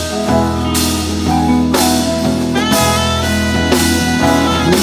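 Live blues-rock band playing an instrumental passage between sung lines: guitar lead over bass and drum kit, with a cymbal hit about once a second.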